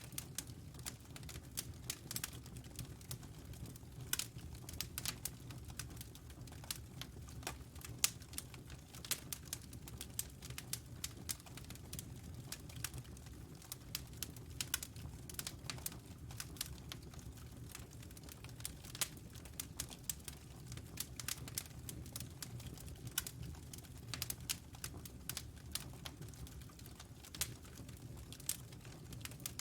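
Wood fire burning in a fireplace, crackling with a dense, irregular stream of sharp pops and snaps over a steady low rumble of the flames.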